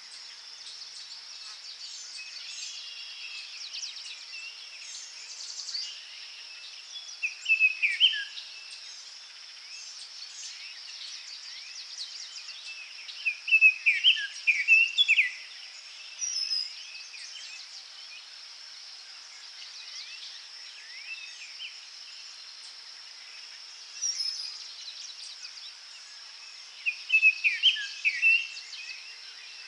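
Forest birdsong over a steady high buzz of insects. One bird sings three loud phrases of quick, sweeping notes, several seconds apart, with a few faint high calls from other birds between them.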